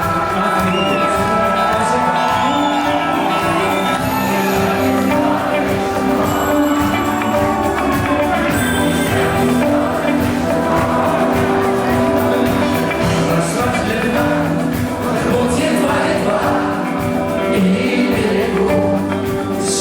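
Rock band playing live in a concert hall, with a vocalist singing over the band.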